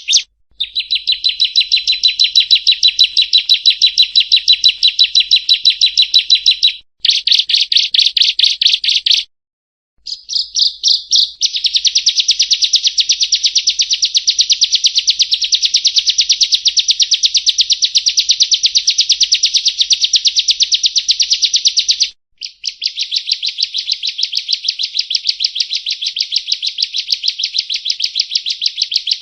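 Bar-winged prinia (ciblek kristal) singing loudly: long runs of rapid, evenly repeated high chirps, broken by a few brief pauses.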